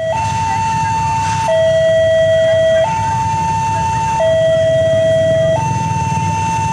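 Indonesian railway level-crossing warning alarm: a loud electronic two-tone signal switching between a higher and a lower tone about every second and a half, the warning that a train is approaching. A steady low rumble lies underneath.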